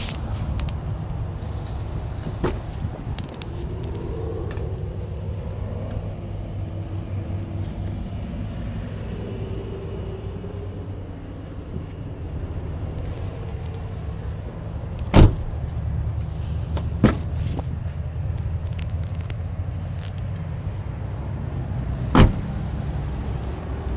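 A vehicle engine idling steadily. A car door shuts with a loud thump about two-thirds of the way through and again near the end, with a lighter knock in between.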